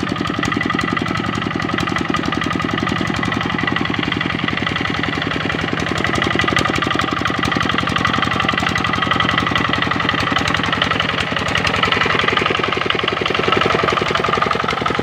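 Kubota RD65 single-cylinder diesel engine of a hand tractor running steadily, its rapid, even firing pulses going without a break.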